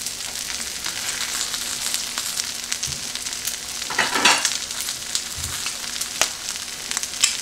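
Bacon, turkey sausages and hash browns sizzling and spattering on an electric nonstick griddle, with sharp pops near the end and a brief louder swish about four seconds in. A faint steady hum from the griddle's heating runs under the frying.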